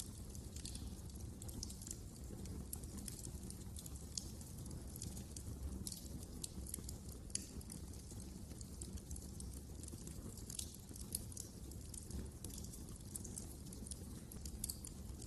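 Wood fire crackling in a fireplace: many small irregular pops and snaps, a few sharper ones, over a low steady rumble of the burning fire.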